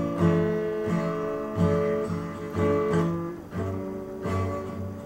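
Acoustic guitar playing a song's introduction, strummed chords changing about once a second.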